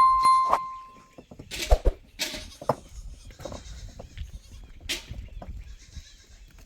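Goats bleating, with a single ringing metallic tone right at the start that fades over about a second, and scattered knocks and clicks.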